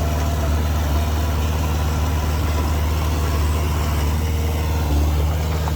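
Diesel engine of heavy construction machinery running steadily with a deep, even hum, swelling slightly about five seconds in.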